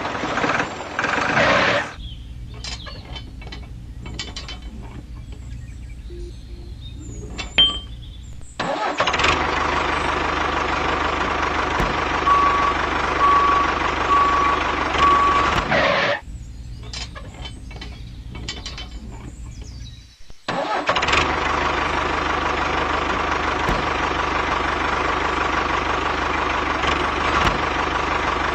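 A motor running in three long stretches, each starting and stopping abruptly, with quieter gaps between them that hold scattered clicks and knocks.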